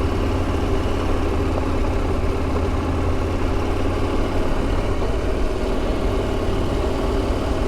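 Motorcycle engine running steadily at low speed, a continuous low drone heard from the rider's seat.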